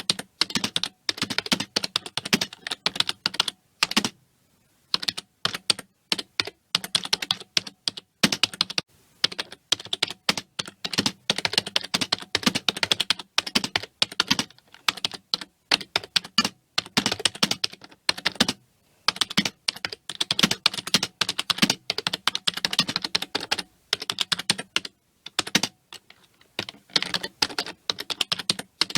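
Fast typing on a computer keyboard: rapid runs of key clicks with short pauses between bursts.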